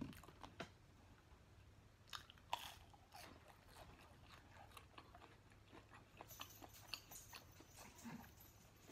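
Faint close-up chewing of fast food: a scattered run of small mouth clicks and soft crunches, the loudest a couple of seconds in.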